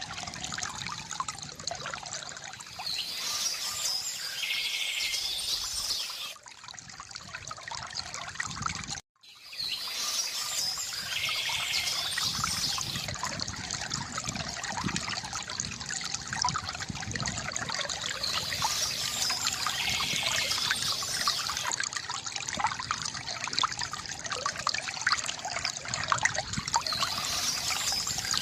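Water from a bamboo fountain trickling and splashing steadily, with birds chirping in short spells that come back about every eight seconds. The sound cuts out for an instant about nine seconds in.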